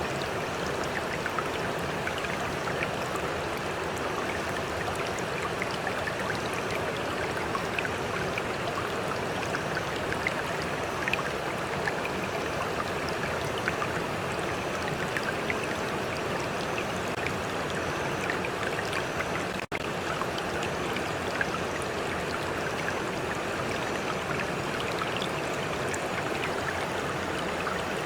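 Stream water running steadily, with small splashes and trickles over the constant rush. The sound cuts out for an instant about two-thirds of the way through.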